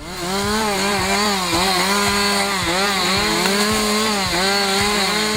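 Two-stroke chainsaw running at high revs, its pitch dipping briefly about twice a second as the chain is loaded.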